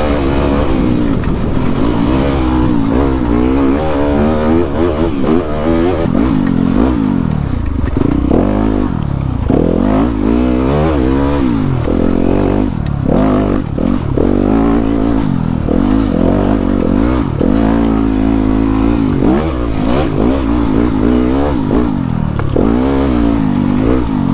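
Dirt bike engine revving up and falling back again and again as the bike is ridden through a tight woods trail, with some clatter.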